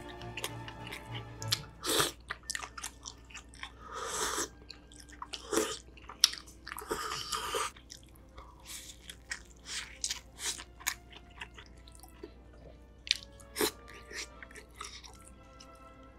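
Chewing and biting into a rice ball (jumeokbap) soaked in tteokbokki broth, irregular mouth sounds with several louder bites, over quiet background music.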